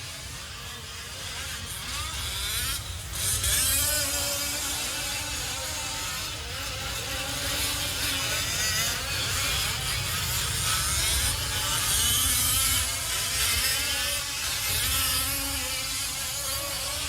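Several 1/5-scale RC off-road race trucks with small two-stroke petrol engines buzzing, their pitch rising and falling as they rev up and back off. The engines overlap, so the sound varies from moment to moment.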